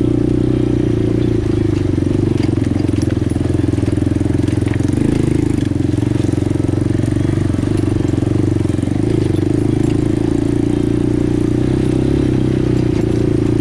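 ATV engine running at a steady speed, its note holding fairly even throughout.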